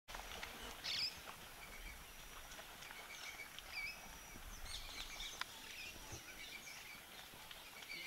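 Birds calling: many short chirps and whistles scattered throughout, the loudest about a second in, over a faint steady hiss.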